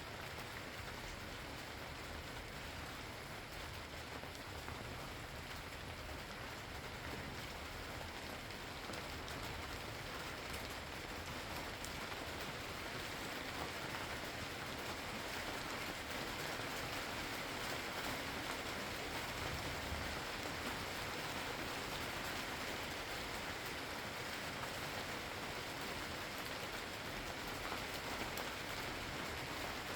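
Steady rain falling, with many single drops ticking on a surface over a continuous hiss. It grows slightly heavier after about twelve seconds.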